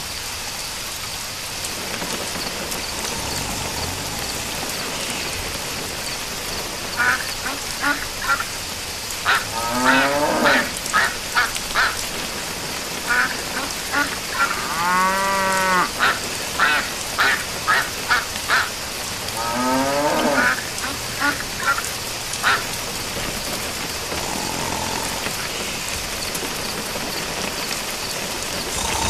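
Steady rain with a run of short animal calls through the middle stretch, one longer call rising and falling in pitch about halfway through.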